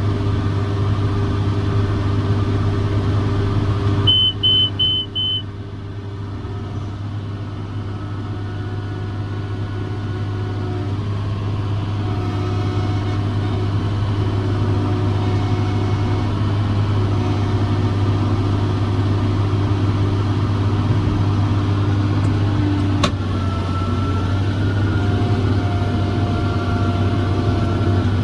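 John Deere 7410 tractor's six-cylinder diesel running steadily under load while pulling a round baler. About four seconds in, four quick high electronic beeps sound.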